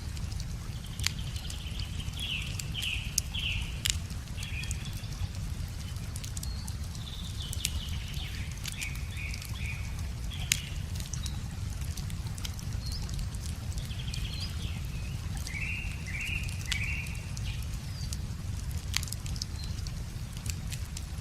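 Wood fire crackling with scattered sharp pops, while birds sing short chirping phrases several times over a steady low rumble.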